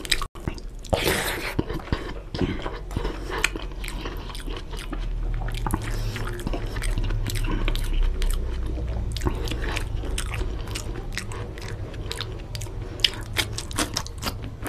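Close-miked eating sounds of mutton biryani eaten by hand: steady chewing with many quick wet mouth clicks and smacks.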